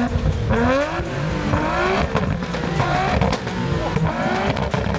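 Car engine revving, its pitch climbing again and again in short pulls.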